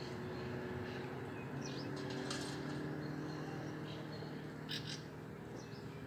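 A few short, high bird chirps scattered through, the clearest a quick pair near the end, over a steady low hum.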